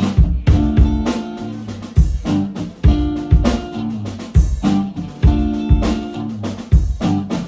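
Acoustic band playing an instrumental intro: guitar chords over a steady low beat.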